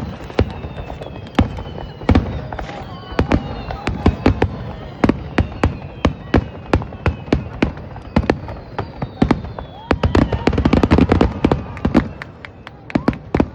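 Fireworks display: a rapid string of bangs and crackling bursts, thickest in a dense barrage about ten to twelve seconds in.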